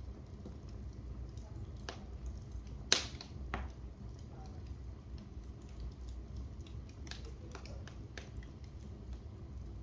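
Wood fire in a fireplace crackling over a steady low rumble, with scattered small pops and one sharp, loud pop about three seconds in.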